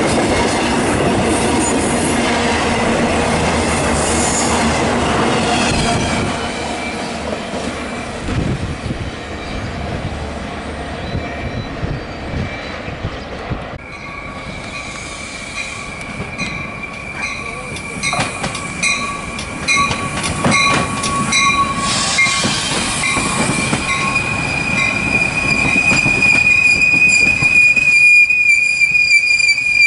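A freight train of trailers on flatcars passes close by with a loud, even rumble of wheels and cars that eases off after about six seconds. About halfway through, a Metra commuter train's bilevel coaches take over: a steady high-pitched wheel squeal sets in and grows louder toward the end, with a run of regular wheel clicks over the rail joints.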